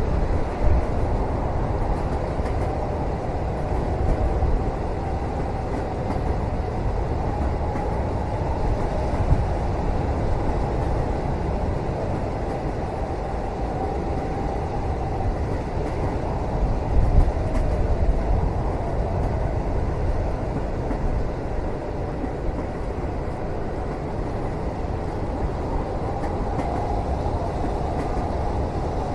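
Steady low rumble of a moving train heard from inside a passenger cabin, with a few soft knocks along the way.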